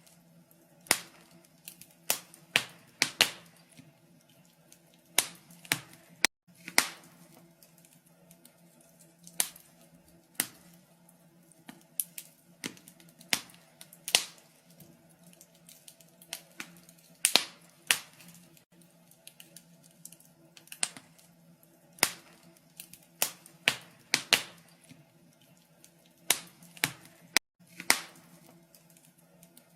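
Wood fire crackling in a fireplace: irregular sharp pops and snaps, roughly one a second and sometimes two or three in quick succession, over a faint low steady hum.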